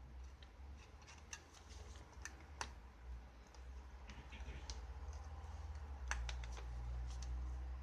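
Irregular light clicks and taps over a steady low hum, louder twice near the middle and about six seconds in.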